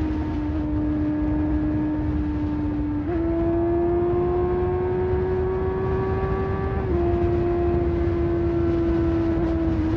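Sport motorcycle engine running at steady cruising revs over wind and road noise. The engine note climbs gradually from about three seconds in as the throttle is rolled on, then drops back a little about seven seconds in.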